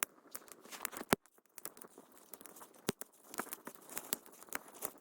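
Campfire of dry wood crackling, with irregular sharp pops and snaps; two louder pops stand out, about a second in and near three seconds.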